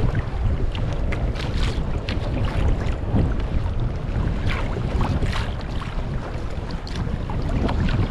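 Strong wind buffeting the microphone in a steady low rumble, with irregular splashes of choppy waves around a kayak on a rough sea.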